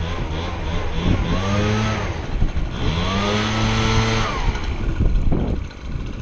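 A vehicle engine accelerating: its pitch climbs, drops at a gear change, then climbs again and holds before easing off.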